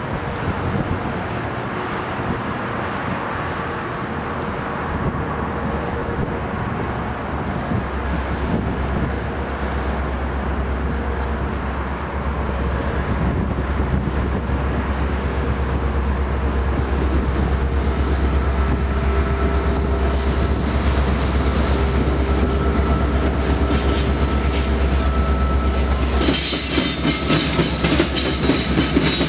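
Two EMD SD70MAC diesel-electric locomotives with two-stroke engines approach and pass with a steady deep rumble, growing louder as they near. About 26 seconds in, the locomotives give way to empty coal hopper cars rolling by with rhythmic wheel clatter.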